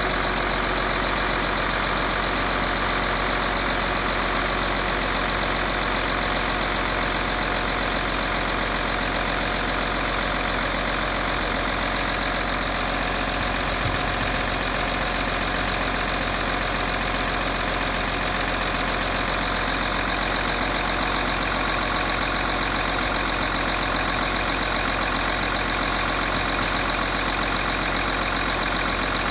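Volkswagen 3.0 V6 TDI common-rail diesel engine (code CRCA) running steadily at idle. It runs evenly with no change in speed, in good working order.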